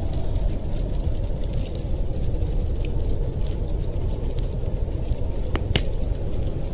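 A wood fire crackles over the steady low rumble of a snowstorm wind. Small crackles come throughout, with a couple of sharper pops near the end.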